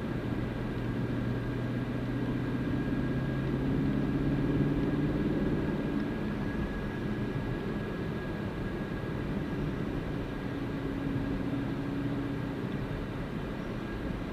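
Car driving at a steady cruising speed: continuous engine drone with road and wind noise.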